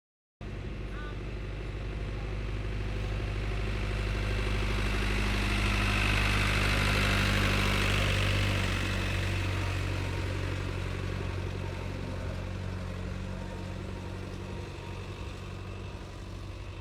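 A truck engine running with a steady low drone. It grows louder toward the middle, with a rising rush of higher noise at its peak, then fades away again.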